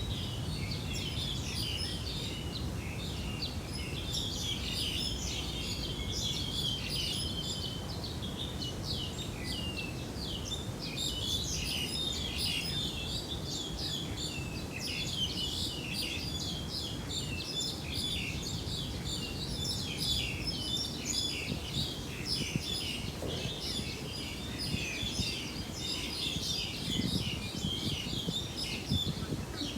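Many small birds chirping and calling at once, a dense chorus of short overlapping chirps, over a steady low rumbling noise.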